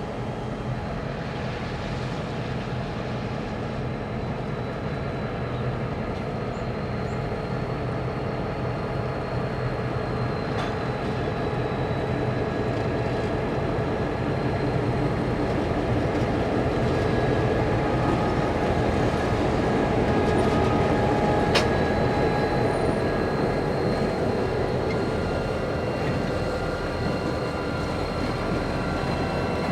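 Freight train with diesel locomotives running: a steady engine drone with thin high whines over it, growing gradually louder to a peak about two-thirds of the way through, then easing off. There is one sharp click shortly after the peak.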